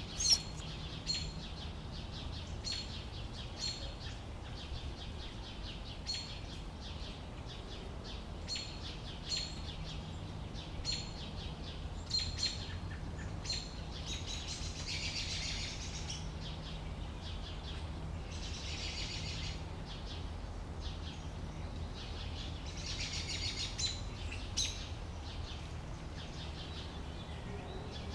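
Birds calling outdoors: short, sharp chirps repeated every second or two, with three longer buzzy trills partway through, over a low steady rumble.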